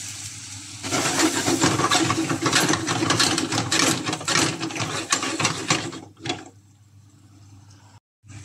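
Cubes of pumpkin sizzling and crackling in hot oil in a frying pan, just after going in. The frying is loud for about five seconds, then dies down to a faint sizzle.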